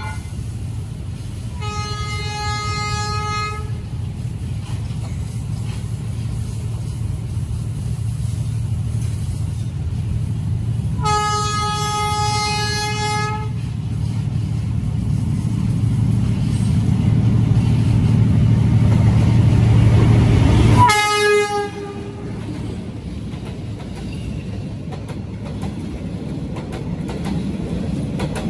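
D19E diesel-electric locomotive approaching and sounding its horn: two long blasts about nine seconds apart, while the engine rumble grows louder. It passes about two-thirds through with a short horn blast that drops in pitch, the rumble cuts away suddenly, and the passenger coaches roll past.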